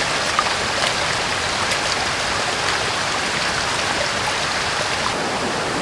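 Mountain river flowing: a steady rush of running water.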